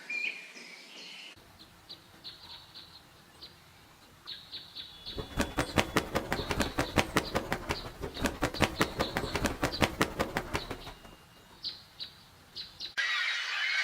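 Young buzzard flapping its wings at the nest: a run of quick, even wingbeats, about five a second, lasting around six seconds, with short high bird chirps before and after.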